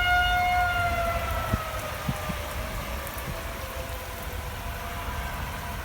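Outdoor tornado warning siren sounding one long tone that slowly falls in pitch, over steady rain.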